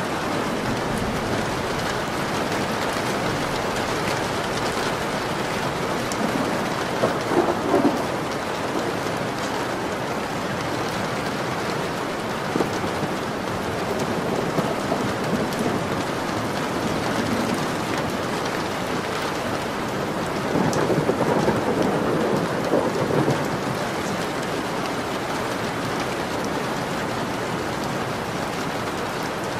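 Steady rain falling, an even hiss of drops. It swells louder briefly about seven seconds in and again for a couple of seconds around twenty-one seconds.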